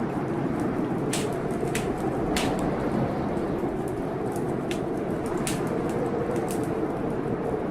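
Heavy blizzard wind blowing steadily with a faint wavering whistle, while a wood fire in a fireplace crackles with sharp, irregular pops about once a second.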